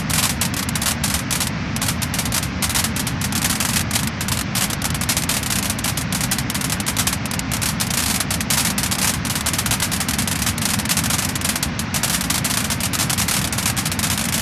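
Wood-burning fire crackling and popping: a dense run of small snaps over a steady low rumble.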